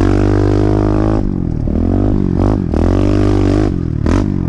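Pit bike engine being ridden hard on a dirt track, revving up and easing off: its pitch climbs, then drops away sharply about three times, with short rough breaks between the pulls.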